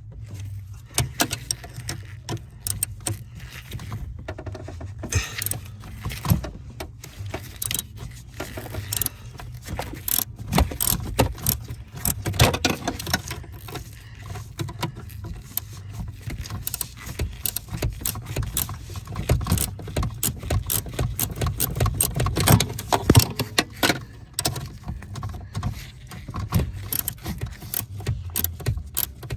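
Metal hand tools clicking and clinking irregularly as a bolt on the steering column's intermediate shaft is worked loose, over a steady low hum.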